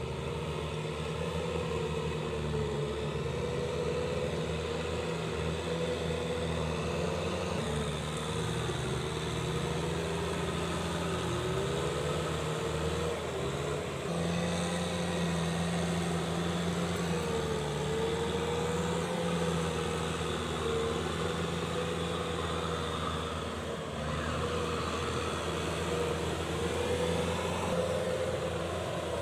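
Kubota M6040SU tractor's four-cylinder diesel engine running steadily, its pitch wavering slightly up and down.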